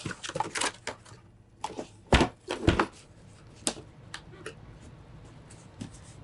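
Motherboard box and its accessories being handled: light rustling, then two loud knocks about half a second apart a little over two seconds in, followed by a sharp click and a few faint ticks.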